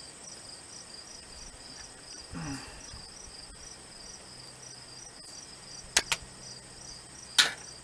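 Crickets chirping steadily in an even pulsing rhythm, with a few sharp clicks near the end.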